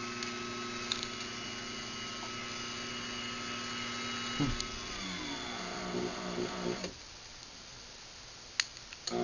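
Craftsman garage door opener motor running with a steady hum, dropping sharply in pitch about four and a half seconds in and cutting off about seven seconds in. A couple of sharp clicks follow, and a hum starts up again just at the end.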